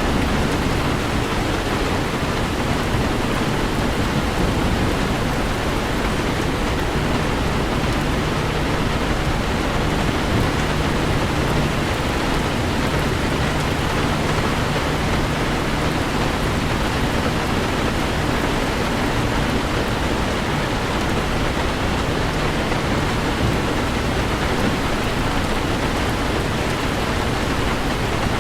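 Steady heavy rain falling on a moving car, an even wash of noise, with a faint low steady hum beneath it.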